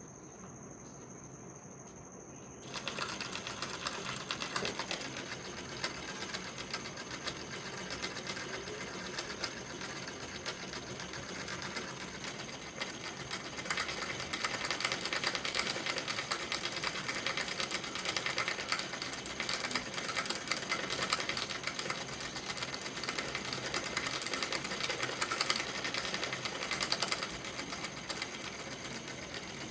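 Homemade 5-volt solenoid engine running, its plunger clicking rapidly in and out as it turns the flywheel. The fast, even clatter starts about three seconds in and keeps going.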